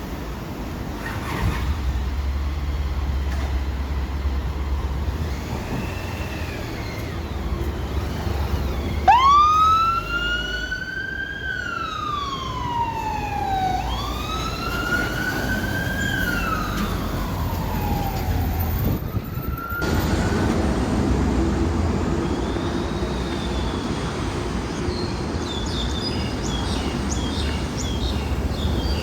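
Emergency siren on a Honda ST1300P paramedic motorcycle wailing: two long rising-and-falling wails about a third of the way in, then a third wail cut off sharply just after the middle, over a steady low rumble of engine and traffic.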